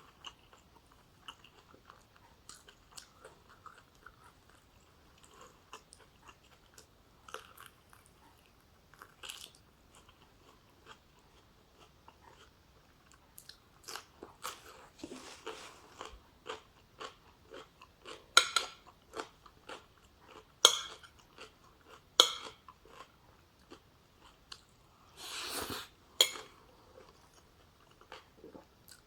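Close-up eating sounds: chewing and biting with crunching, from a mouthful of oxtail stew with rice and vegetables. Short sharp clicks come sparsely at first and grow louder and more frequent in the second half, with a noisy stretch about a second long near the end.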